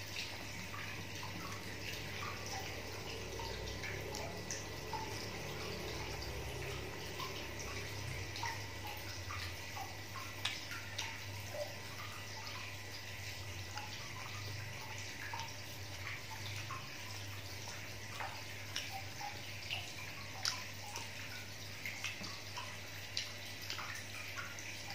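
Someone chewing and eating fried banana fritters by hand, with scattered soft mouth clicks and smacks over a steady background hiss.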